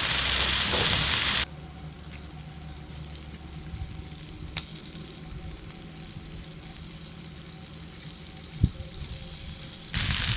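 Fish, squid and miso sizzling in a frying pan, cut off abruptly about a second and a half in, leaving a quiet steady hum with a couple of faint clicks; the sizzling comes back suddenly near the end.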